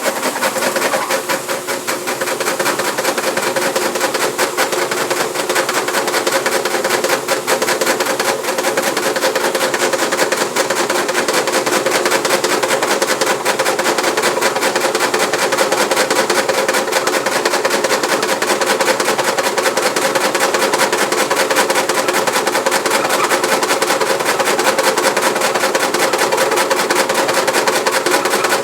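Frigidaire washing machine running with a fast, continuous rattling and knocking over a steady hum: the machine is vibrating too much.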